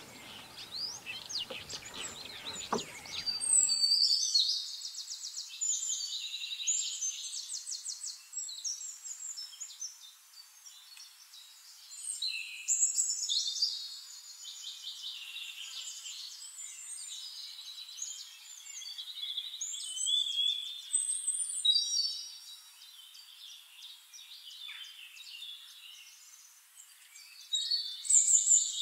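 Songbirds singing: phrases of high, fast trills and chirps, one after another every few seconds.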